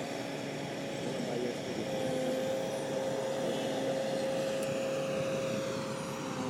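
Car driving, heard from inside the cabin: steady engine and road noise with a steady whine.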